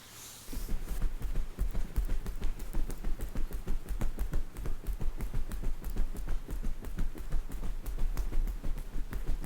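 Rapid, uneven tapping, several strokes a second with a deep thump in each, starting about half a second in.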